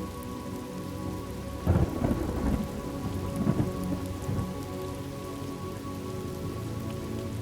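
Steady rain falling, with a thunderclap about two seconds in that rumbles on in several swells for a couple of seconds before the rain alone is left.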